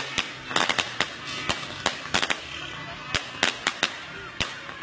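Aerial fireworks bursting: a rapid, irregular series of sharp bangs and crackles, several every second.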